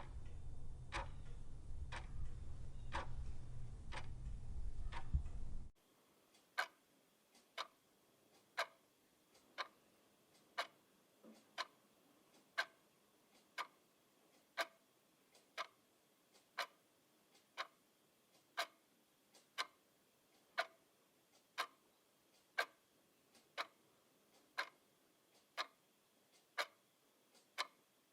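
Clock ticking steadily. For the first five or so seconds it comes about twice a second over a low rumbling hum; the hum then cuts off suddenly, leaving a cleaner, slower tick of about one per second.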